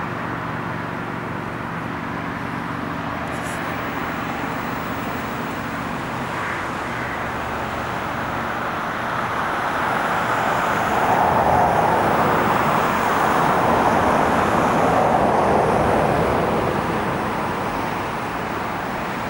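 Diesel locomotives of an approaching freight train running with a steady low hum. From about nine seconds in, a broad rushing noise swells up, stays loud for several seconds and fades again near the end.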